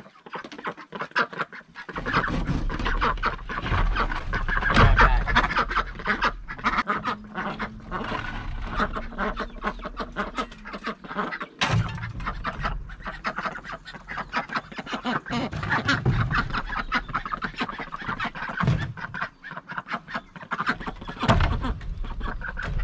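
Domestic ducks quacking in a busy, continuous chatter of many short calls. A low rumble comes in about two seconds in and runs under the calls.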